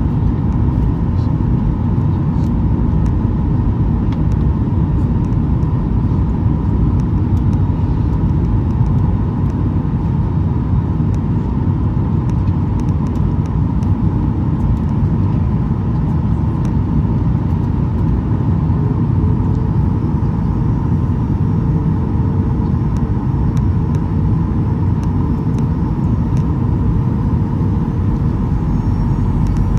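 Steady in-flight cabin noise of a Boeing 737-800, heard beside its CFM56 engine: a dense low rumble with a steady hum near the middle of the range. A faint second tone joins the hum about two-thirds of the way through.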